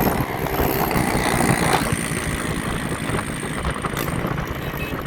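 Motor vehicle engine running steadily, heard over continuous rumbling noise.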